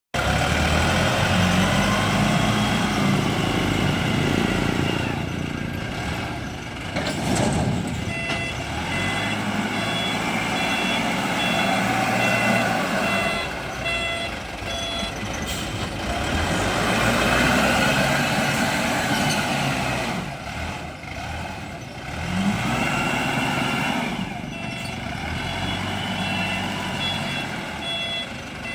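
ZL932 wheel loader's diesel engine revving up and dropping back in repeated work cycles, several seconds apart. From about eight seconds in, its reversing alarm beeps steadily at times.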